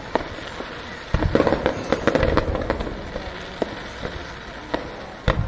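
Aerial fireworks going off. A dense run of bangs and crackles starts about a second in, then single bangs follow at intervals, with another loud bang near the end.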